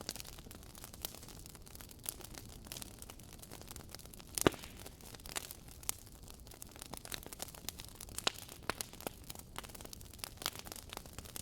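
Campfire crackling: an irregular scatter of sharp pops and snaps over a faint hiss, with one louder pop about four and a half seconds in.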